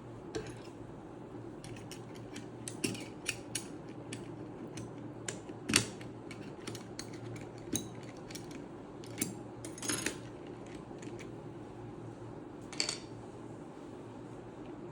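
Plastic keycaps clicking and clattering as they are handled and pressed onto a mechanical keyboard's switches, in irregular sharp clicks with one louder snap about six seconds in. A steady low hum runs underneath.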